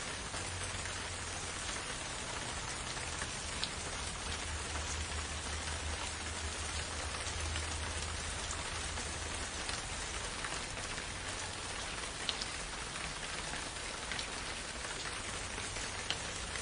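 Steady rain falling, a dense even hiss with scattered single drops ticking louder close by, over a low rumble.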